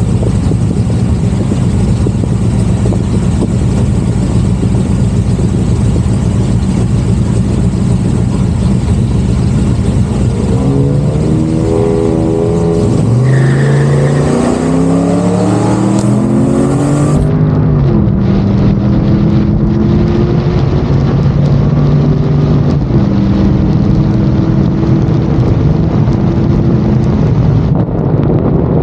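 LS V8 engine of a swapped car on a full-throttle drag-strip pass. It drones steadily for about ten seconds, then climbs in pitch and drops back again and again as it shifts up through the gears.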